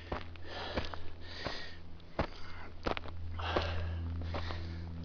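Heavy breathing of a hiker climbing a steep slope, several hard breaths in and out, with a few sharp ticks from footsteps.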